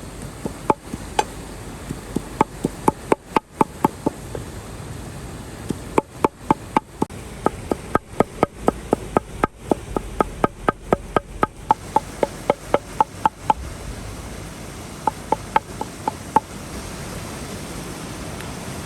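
Knife chopping on a wooden cutting board in quick runs of sharp knocks, about three a second, with short pauses between the runs.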